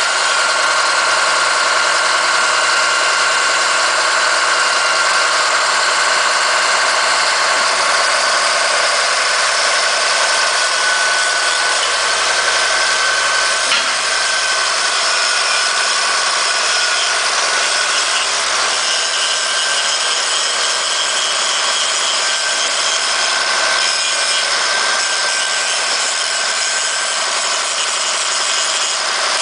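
Caterpillar D7H bulldozer's six-cylinder diesel engine running steadily, with a steady high whine over it and one short knock about halfway through.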